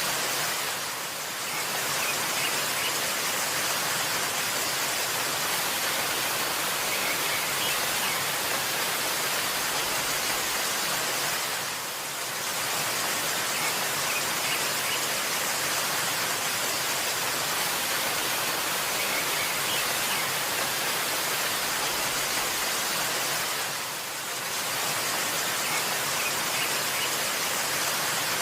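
Steady rushing of a waterfall, dipping briefly in level about every twelve seconds, with a few faint high bird chirps now and then.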